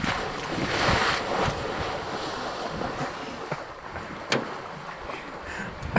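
Rushing, splashing water with wind buffeting the microphone, loudest about a second in, and a sharp click a little past four seconds in.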